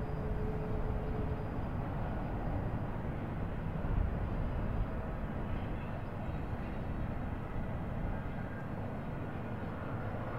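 Freight train rumbling steadily, with a held tone fading out about a second and a half in.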